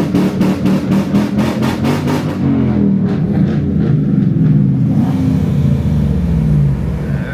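Car engine revving hard, its pitch swinging up and down, with a rapid string of sharp cracks about five a second for the first two seconds. The revs fall away near the end.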